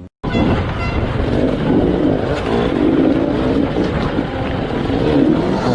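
Off-road motorcycle engine running hard under throttle, its pitch rising and falling as it revs. It starts abruptly after a short drop to silence at the very beginning.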